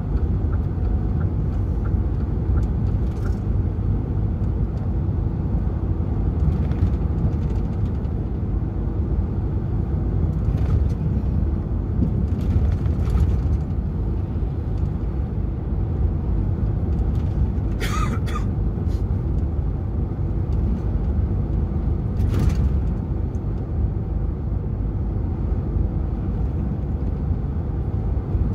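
DAF XF 480 truck's diesel engine running with road noise at a steady low rumble as the truck drives, with two brief sharper noises in the second half.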